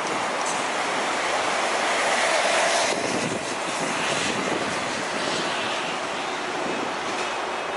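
Passing highway traffic: tyre and engine noise that swells as a vehicle goes by, peaks about two and a half seconds in and drops off suddenly, then continues as a steady rush.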